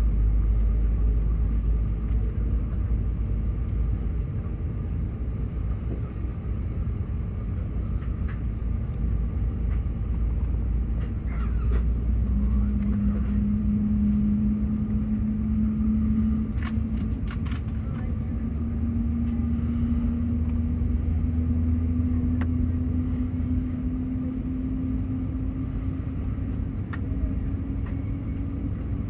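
Airbus A380 jet engine spooling up during start, heard from inside the cabin: a steady low rumble, joined about twelve seconds in by a tone that slowly rises in pitch. A few brief clicks come around the middle.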